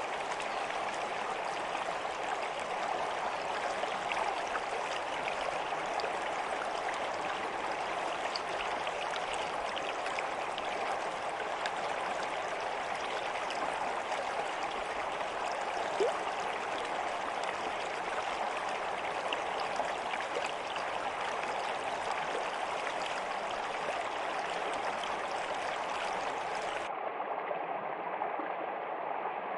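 Steady rush and babble of a flowing stream, even in level with many small splashes. Near the end it suddenly turns duller, as if the recording changes.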